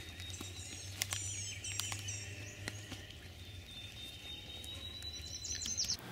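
Small songbirds chirping faintly: quick high chirps in the first couple of seconds, a long thin high whistle in the middle, and a few more chirps near the end, over a steady low hum and a few light clicks.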